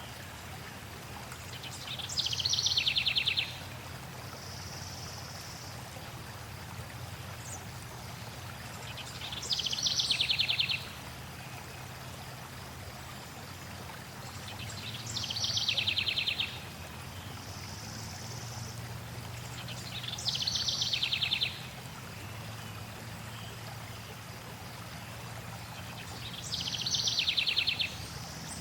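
A songbird repeats a short, fast trill five times, about every six seconds, each song starting high and dropping in pitch. Under it runs the steady rush of flowing stream water.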